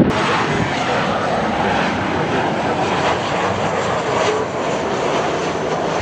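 Jet airliner engines running loud and steady, a dense rushing noise with no distinct tones, that cuts in abruptly.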